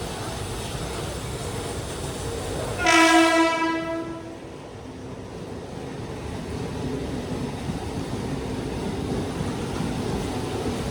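A train horn sounds one steady blast of about a second and a half, about three seconds in, over the continuous rumble of a train running on the tracks.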